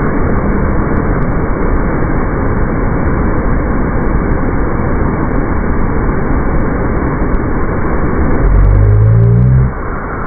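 Steady rush of a fast mountain river close by, heard as a loud, even noise. Near the end a short rising pitched sound cuts in over it.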